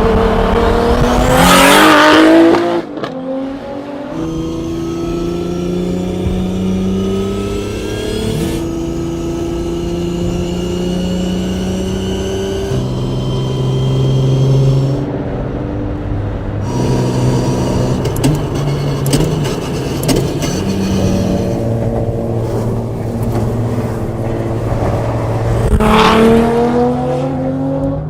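Nissan R34 GT-R's built RB26 2.8-litre stroker inline-six being driven. It revs hard with a rising pitch, then drops off sharply about three seconds in. It runs at steady engine speeds that step up and down for a long stretch, then revs hard again near the end.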